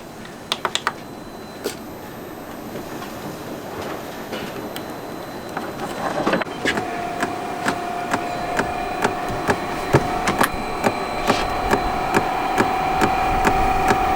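Chinese diesel air heater starting up: its fuel dosing pump ticking steadily about twice a second, with a steady hum from the heater's fan coming in about halfway and growing louder. The pump is not yet drawing fuel, because the fuel line has not primed.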